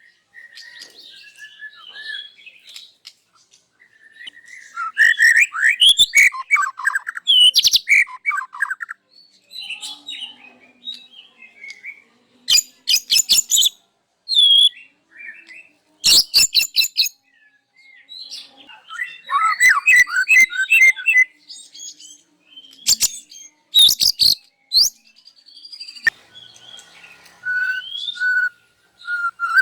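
White-rumped shama (murai batu) singing loudly in a long run of varied phrases: whistled notes and pitch glides mixed with sharp, rattling clicks, with short gaps between phrases. The mix of phrases is the bird's learned repertoire of mimicked songs (isian).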